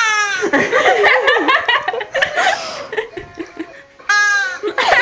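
Laughter in choppy bursts, each of two bouts opening with a high, falling shriek; the second bout starts about four seconds in.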